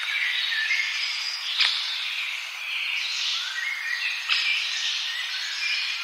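A chorus of forest birds singing and calling over one another in dense, overlapping high chirps. A sharp tick stands out about one and a half seconds in.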